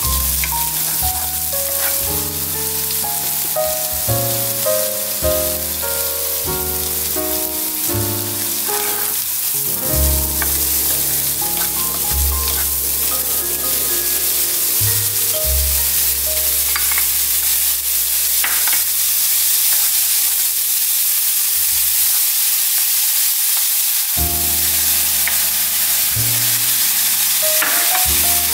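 Corn kernels sizzling as they fry in butter in a nonstick pan, stirred with a wooden spatula. A soft melody plays underneath and drops out for a few seconds near the end.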